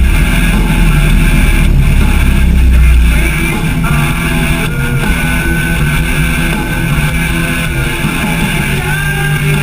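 Harley-Davidson V-twin motorcycle running, with a heavy low rumble that drops away about a third of the way in. Music plays alongside it.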